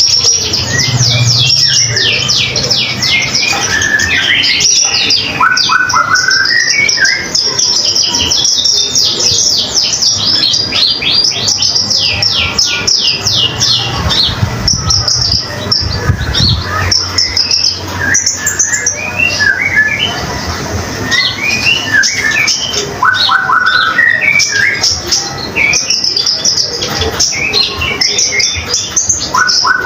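Konin songbird singing continuously: long runs of fast, high chirps and trills mixed with short whistled phrases, over a faint low hum.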